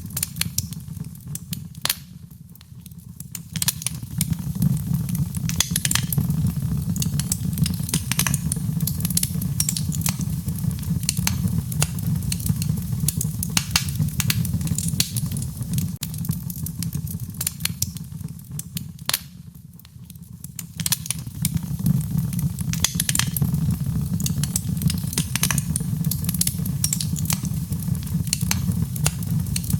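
Wood fire burning in a fireplace: steady crackling and popping over a low rumble of the flames. The rumble dips briefly twice, a few seconds in and about two-thirds of the way through.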